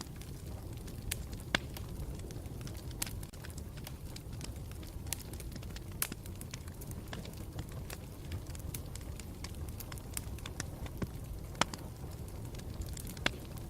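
Campfire burning: a steady low rumble of flames with irregular sharp crackles and pops from the burning wood, a few louder snaps scattered through.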